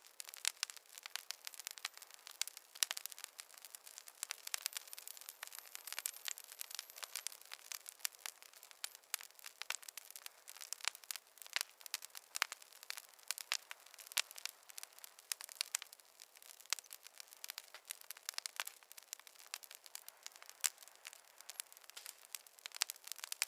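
Wood fire crackling: a steady, irregular stream of sharp pops and snaps over a faint hiss, with no low rumble.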